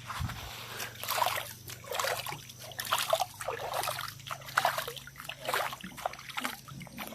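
Water splashing and trickling in a series of uneven splashes as hands scoop fresh water from a small flowing spring stream.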